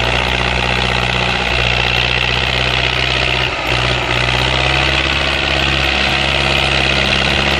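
Tractor engine running at a steady, constant speed, with a brief dip in the sound about three and a half seconds in.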